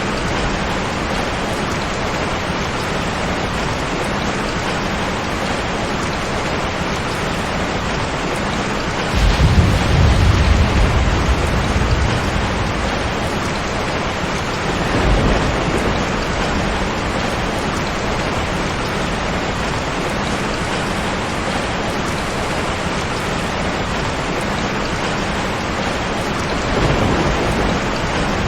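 Steady heavy rain with rolling thunder: a loud low rumble breaks out about nine seconds in and fades over a few seconds, and two fainter rumbles follow later.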